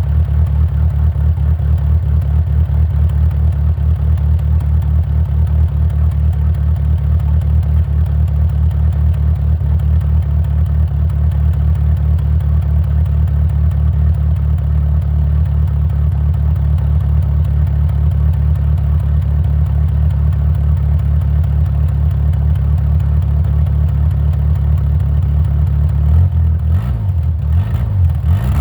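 1994 Plymouth Acclaim's 2.5-litre four-cylinder heard at the exhaust, idling steadily with an even low pulse, still cold after a start at 20°. Near the end the revs rise and fall briefly a couple of times.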